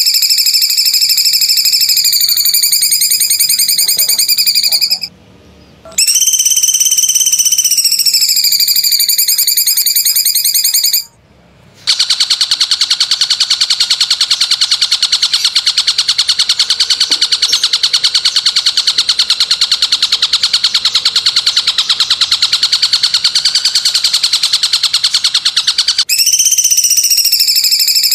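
Shrill, high-pitched animal calls from a masteran recording for training songbirds. Two long held notes are each cut off abruptly, followed by a long fast buzzing trill, and another held note starts near the end.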